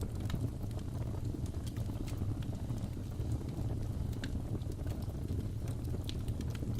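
Crackling fireplace: a steady low rumble of burning wood with irregular sharp pops and crackles scattered throughout.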